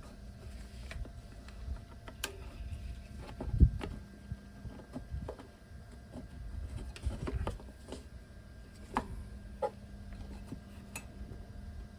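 Scattered clicks and light knocks of small engine parts being handled and fitted by hand, with one louder low thump about three and a half seconds in.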